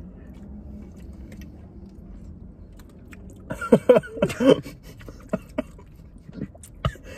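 Mouth sounds of people chewing a soft, slippery rice-flour jelly dessert. About three and a half seconds in there is a short burst of muffled laughing through a full mouth.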